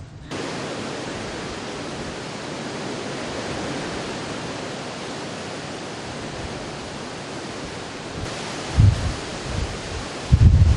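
Steady rushing of hurricane wind and surf, with a couple of low thuds near the end.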